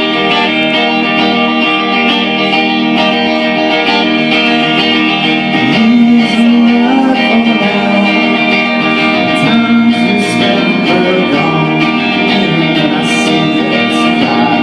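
A rock band playing live, led by sustained, distorted-sounding electric guitar chords with shifting notes and a light cymbal wash.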